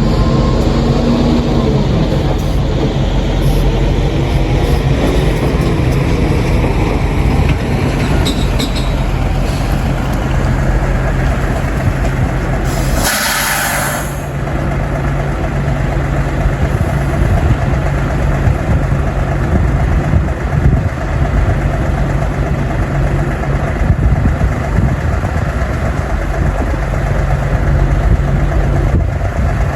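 An engine running steadily, a low hum under a constant rushing noise, with a brief loud burst of hiss about thirteen seconds in.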